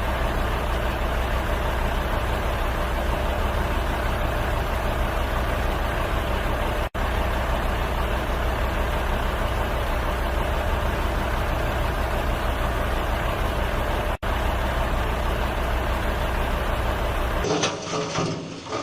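Steady vehicle engine and road noise, a low hum under an even hiss, broken by two abrupt split-second dropouts about seven and fourteen seconds in. Near the end it gives way to a quieter, changing sound.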